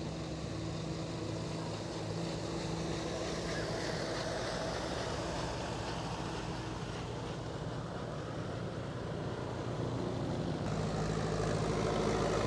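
Old farm tractor engines running steadily as the tractors drive past, with a shift in the engine sound near the end.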